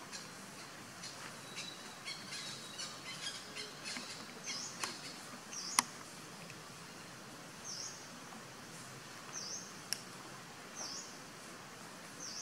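A bird repeats a short, high, swooping chirp every second or two over faint wild ambience, with scattered light ticks and clicks and one sharp click about six seconds in, the loudest sound, and another near ten seconds.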